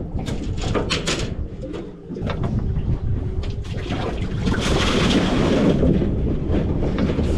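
Sounds aboard a small fishing boat on the water: a few sharp knocks and clatter, then a rushing noise of water or wind that swells about four seconds in and fades near the end, over a low rumble.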